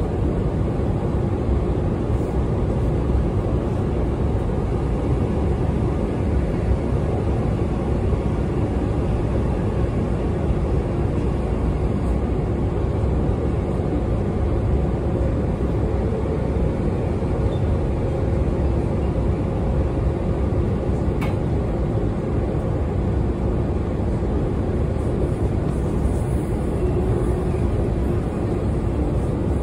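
Running noise heard from inside a Sydney Trains H-set electric train moving at speed: a steady low rumble of wheels on rail with a steady hum running through it. One sharp click comes about two-thirds of the way through.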